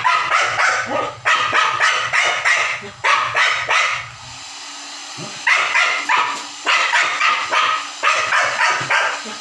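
A dog barking and yapping in quick, loud runs, with a short lull about halfway through. It is barking in protest at being dried with warm air after a bath.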